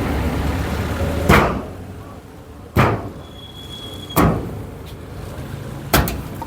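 Four loud bangs, spaced about one and a half seconds apart, over a steady low rumble.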